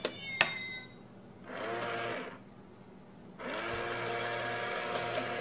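A small electric motor whirring in two runs, a short one about a second and a half in and a longer one starting about three and a half seconds in, each spinning up to a steady pitch. A couple of sharp clicks come at the very start.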